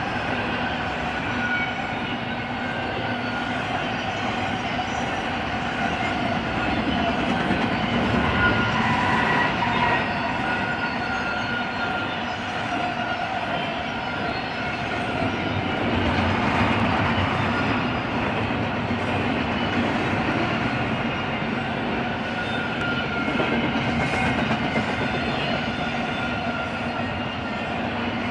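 Freight train cars rolling past on steel wheels: a steady rumble and wheel clatter on the rail, with faint squealing tones that drift slightly in pitch.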